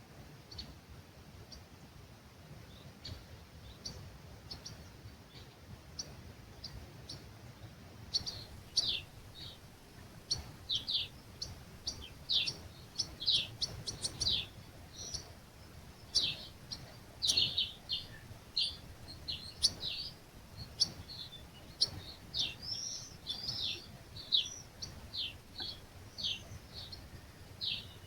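Songbirds chirping at dawn in an olive grove: short, quick falling chirps, a few faint at first, then a busy run of loud repeated calls from about 8 seconds in.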